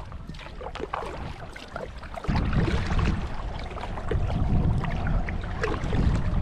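Canoe paddle strokes: water splashing and dripping in short, irregular bursts. About two seconds in, a loud low rumble of wind on the microphone sets in.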